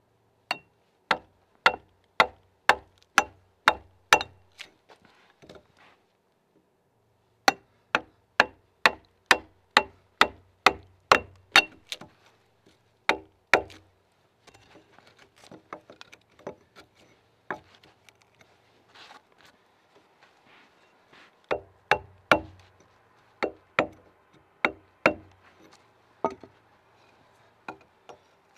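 Axe chopping into a timber log in steady runs of sharp blows, about two a second, while cutting a cog joint in a log-wall corner. Between the runs there are pauses and lighter scraping and paring sounds.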